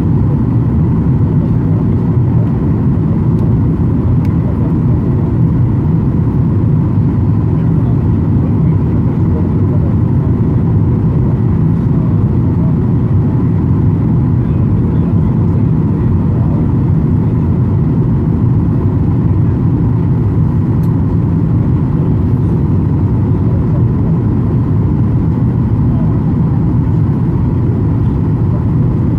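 Steady, loud drone of an airliner's engines and airflow heard from inside the passenger cabin, with a faint constant whine over it.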